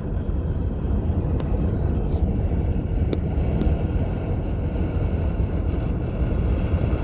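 Steady wind noise inside the cabin of a 2020 Toyota Highlander Platinum at highway speed, about 65 mph, a constant rush heaviest in the low range. The owner blames it on the front windows, worst on the driver's side, and suspects a door or window seal.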